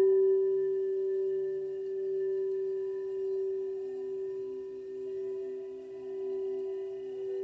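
Singing bowl struck once and ringing on with one sustained tone and a fainter overtone, fading slowly and wavering in loudness every second or so.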